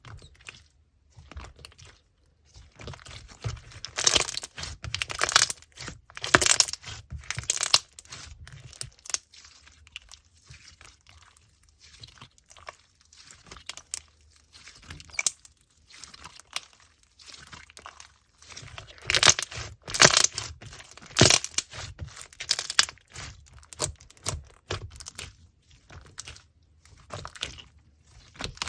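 Slime being squeezed, stretched and poked by hand, with irregular crackling and popping in bunches, loudest twice.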